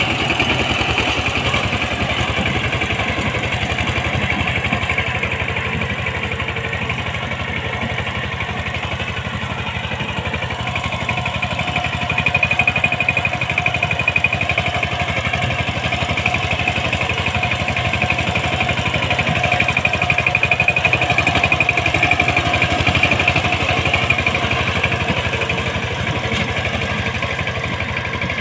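Power tiller engine running steadily with a fast, even firing beat. It gets a little louder about twelve seconds in and again around twenty seconds.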